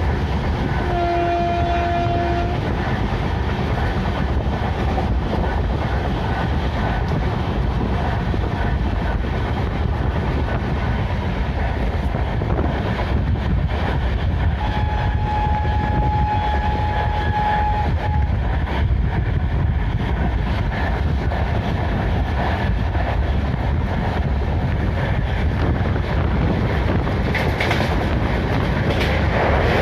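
Indian Railways train running with steady track noise. Its horn sounds briefly about a second in, and again for about three seconds around the middle.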